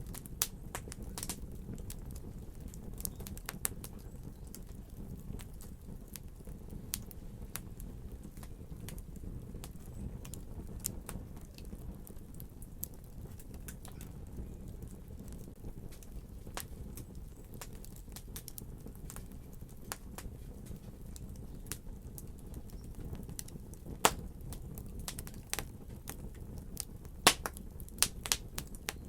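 Wood fire crackling steadily over a low rumble, with scattered sharp pops and a few louder snaps near the end.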